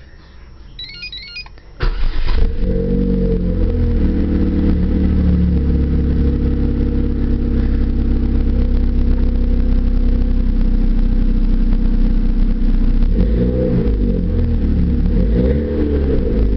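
A 2005 Chevrolet Cavalier's Ecotec four-cylinder engine starts about two seconds in and settles to a steady idle through a 2.5-inch exhaust with a Magnaflow cat and a Flowmaster Super 40 muffler. Near the end it is revved in a few short blips.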